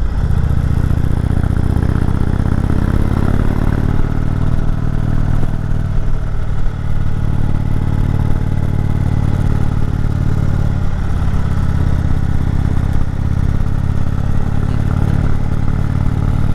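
Indian Chieftain motorcycle's V-twin engine running steadily under load in second gear on a steep uphill climb.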